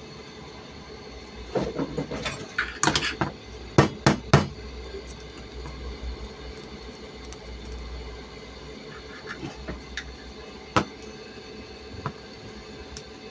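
Tools and hard parts knocking and clattering as they are handled: a cluster of sharp knocks in the first few seconds, then a single knock about eleven seconds in.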